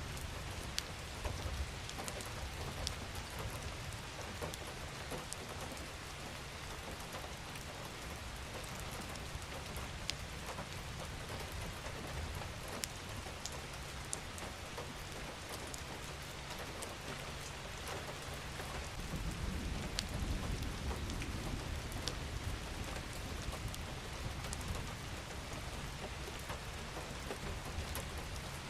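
Steady rain falling, with scattered sharp drips and drop ticks. About two-thirds of the way through, a low rumble swells for a few seconds and fades.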